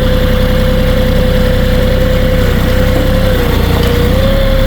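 Kioti 3520 HST compact tractor's diesel engine running steadily while pushing heavy, soft snow with the front plow, with a steady high whine over the rumble that rises slightly near the end.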